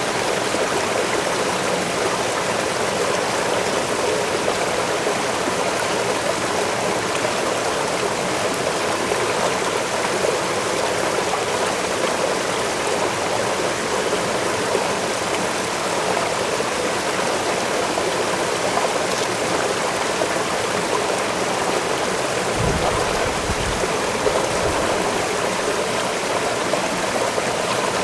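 Waterfall rushing steadily, an even wash of falling water. A brief low rumble comes about 23 seconds in.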